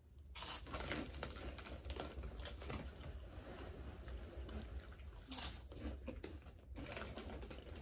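Faint, irregular crunching and mouth clicks from chewing crunchy snack fries close to the microphone.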